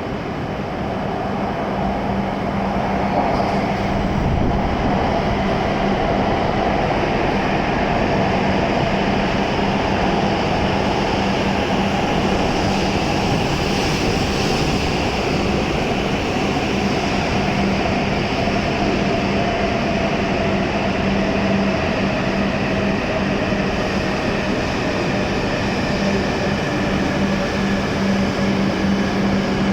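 Hokuriku Shinkansen train pulling into the platform and braking: a steady rush of running noise, with a motor whine that falls slowly in pitch as it slows, and a steady low hum underneath.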